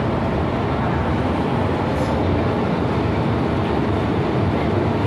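MTR M-Train (Metro-Cammell electric multiple unit) running between stations: a steady rumble of wheels on rail and traction noise.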